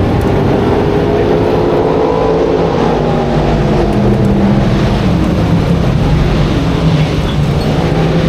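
Dirt modified race car engine running loud and steady, its pitch dropping a little about three seconds in.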